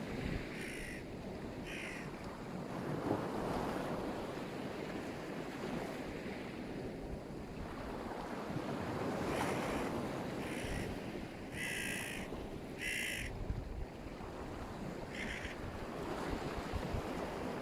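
Black Sea surf washing steadily onto the shore with wind on the microphone, while a bird gives several short, harsh calls: two in the first couple of seconds, then a run of them in the second half.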